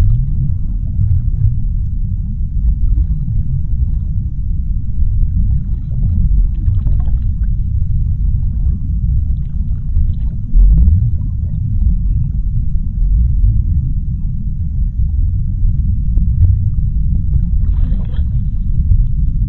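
Underwater ocean ambience: a steady deep rumble, with faint higher sounds rising above it now and then and a brief louder swell about ten seconds in.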